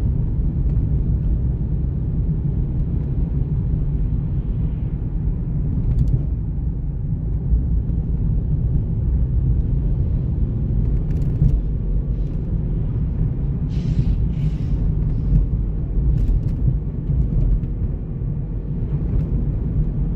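Steady low rumble of a moving vehicle, with a few faint clicks and short hisses over it.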